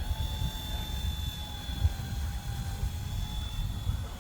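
Wind buffeting the microphone with an uneven low rumble, over a faint steady high-pitched whine from the RC ERA 186C Pro micro helicopter's motor and rotor.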